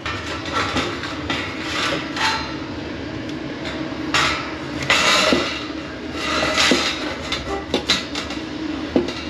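Irregular knocks, clinks and short scrapes of small metal parts and tools being handled while mounting a light fixture.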